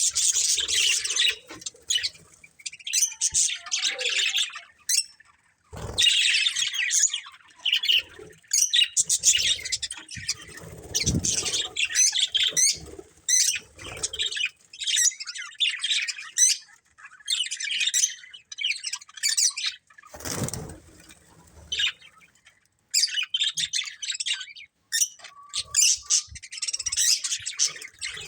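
Budgerigars chirping and chattering in rapid high bursts with short pauses between them. Two brief low thumps come in, about six seconds in and again near twenty seconds.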